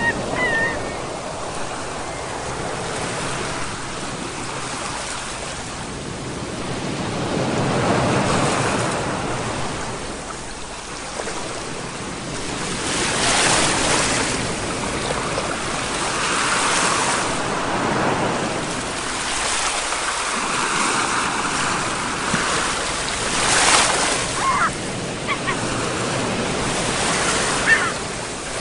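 Sea waves breaking and washing up the shore, the surf swelling and falling back every few seconds. A short pitched call sounds right at the start.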